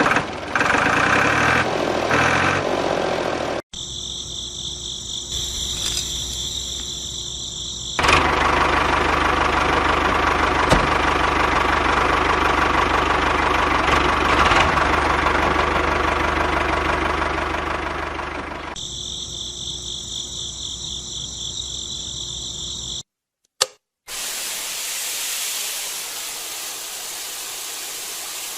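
A small motor running in several short segments that change abruptly, some with a steady high-pitched whine. Near the end it gives way to a steady hiss.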